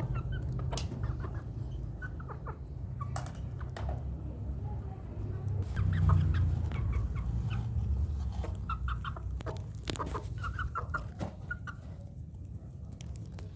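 Young village chickens, under three months old, clucking in short scattered calls, with a few clicks over a low steady rumble.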